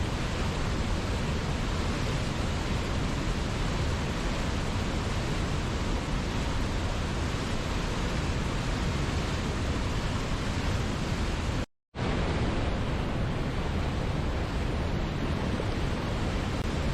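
Steady rushing of a waterfall, an even hiss of falling water at a constant level. It cuts out to silence for a split second about twelve seconds in, then resumes.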